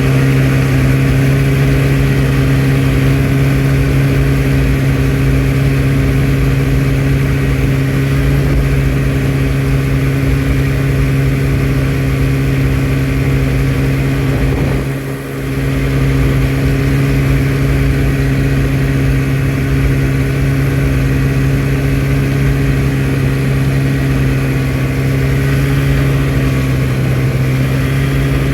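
Engine of a small tracked or wheeled trail vehicle running steadily while towing a trail-grooming drag over snow, dipping briefly about halfway through.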